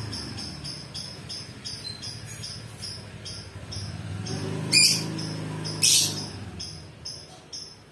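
Lovebird chattering in a fast, even run of short high chirps, with two loud, sharp shrieks a little past the middle.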